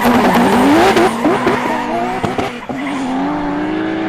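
Drag-racing cars accelerating hard down the strip: engine pitch climbs and drops several times in quick succession, then rises in one longer, smoother sweep as the sound fades off into the distance.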